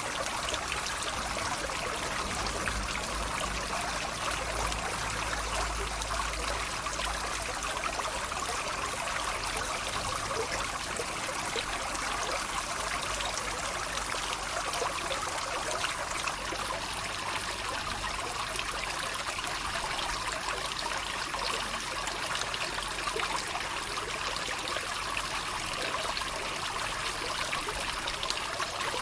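Small stream of water trickling and babbling steadily.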